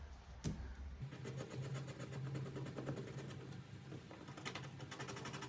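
Quiet handling of paper and cash: light rustling and a sharp tap as a savings challenge booklet and banknotes are taken out and laid down. A faint steady low hum starts about a second in.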